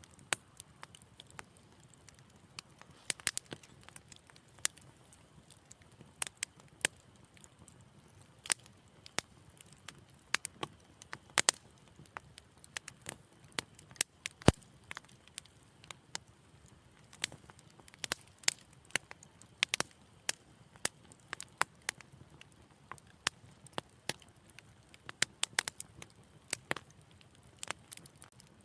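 Wood fire in a fireplace crackling gently, with irregular sharp pops and snaps, sometimes several close together, over a faint low hush of burning.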